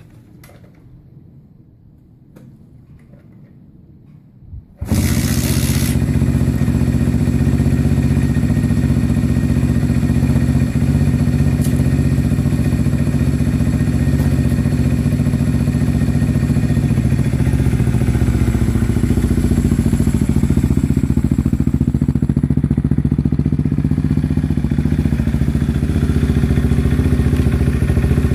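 Kawasaki KSR motorcycle engine firing up about five seconds in on its first start after a top-end overhaul, then running steadily. Before it catches there are only a few faint knocks.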